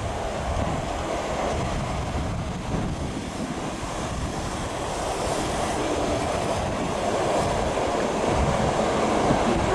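Electric trains approaching along the line into the station: a steady rumble of wheels on rails that grows slowly louder.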